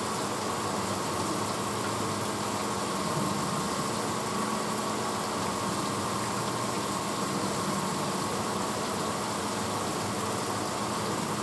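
1986 Hotpoint Potwasher dishwasher running mid-cycle: a steady motor hum over an even rushing noise.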